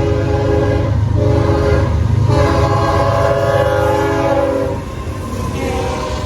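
Locomotive air horn sounding repeated blasts over the low rumble of a passing train. A blast already under way ends about a second in, then comes a short blast, then a long one, and a quieter blast starts near the end.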